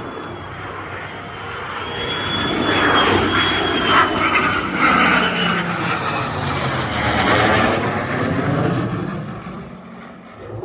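An airplane flying past at an airshow: engine noise swells about two seconds in, peaks with a sweeping, shifting sound as it passes, then fades away near the end, with a steady high whistle over the first half.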